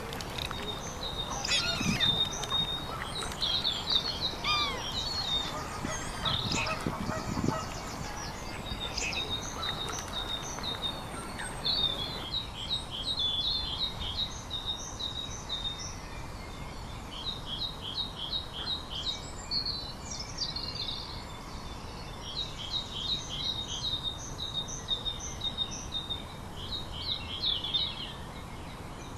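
Several small birds singing and calling: quick runs of high chirps and trills repeated throughout, with some lower calls mixed in during the first dozen seconds.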